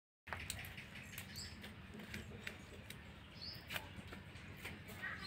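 Faint outdoor background with a low hum and scattered sharp clicks, and a bird giving a short high chirp about every two seconds.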